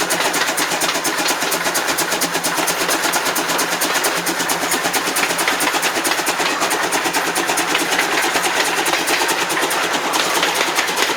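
C12 66 steam locomotive working, its exhaust chuffs beating in a fast, even rhythm of several strokes a second at a steady loudness.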